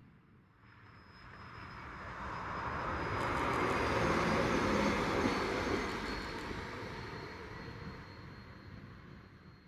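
Greater Anglia Class 755 FLIRT bi-mode unit passing on the unelectrified line under diesel power. The noise swells to a peak about halfway and then fades away.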